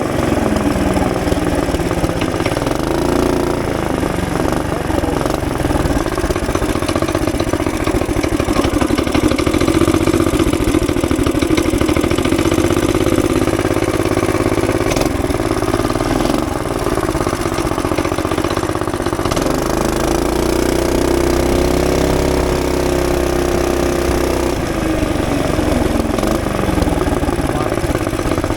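A mini bike's small engine, its governor removed, runs steadily, its pitch rising and falling a few times as the throttle changes.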